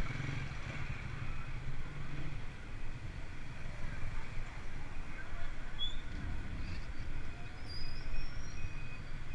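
Steady low wind-and-road rumble from riding a mountain bike, with a few short high chirps midway. Near the end a vehicle's reversing beeper starts, beeping about twice a second.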